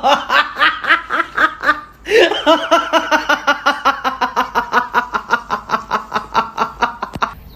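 A person laughing hard in two long runs of quick, rhythmic 'ha' pulses, about six a second, with a short catch of breath about two seconds in.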